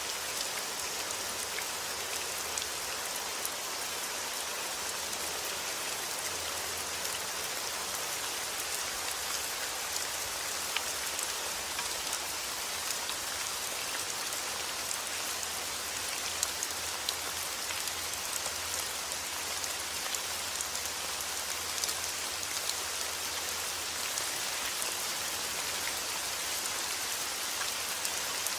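Steady rain falling, with scattered sharper drop hits throughout.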